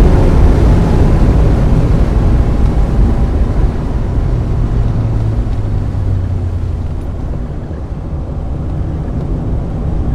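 1995 Mazda Miata's 1.8-litre four-cylinder engine running hard on track, loud at first, then easing off through the middle and picking up slightly near the end.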